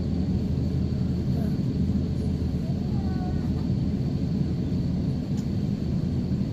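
Steady low rumble inside the cabin of an Airbus A350-900 taxiing after landing, with a thin, steady high tone above it.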